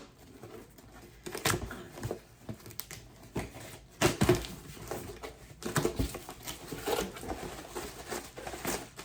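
A gift package being handled and opened by hand: irregular rustling, crinkling and tearing of packaging, with a few sharper knocks.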